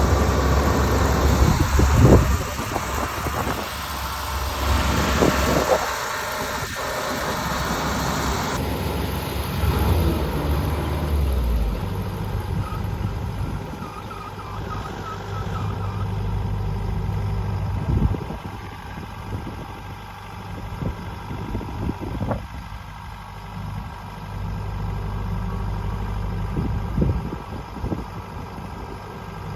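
A motor engine running steadily, with scattered knocks and thumps over it. The sound changes abruptly about 9 seconds in and again about 12 seconds in.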